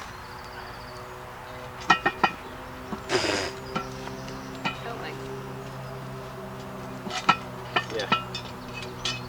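A few sharp clinks and knocks of metal cooking gear, in small clusters about two seconds in and again near the end, over a steady low hum.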